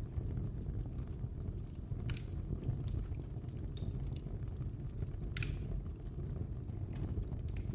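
Wood fire burning in a fireplace: a steady low rumble of the flames with a few sharp crackles and pops, the loudest a longer hissing pop about five seconds in.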